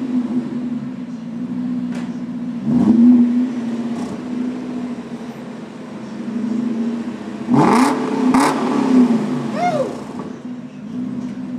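BMW E39 M5's 4.9-litre V8 with the mufflers deleted, idling and blipped: a short rev about three seconds in and a bigger rev near eight seconds, with two sharp cracks at its peak.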